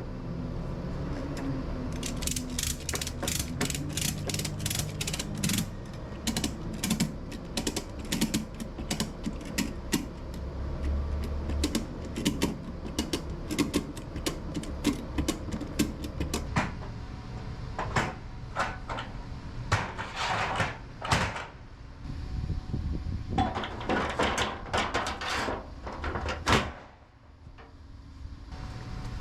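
Ratchet strap being tightened: fast runs of sharp clicks from the ratchet and pawl, then a few separate rattling bursts later on.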